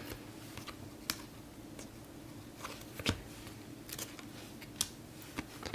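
Glossy trading cards handled and flipped through by hand: irregular light clicks and slides of card on card, the sharpest about three seconds in and again near five seconds, over a faint steady hum.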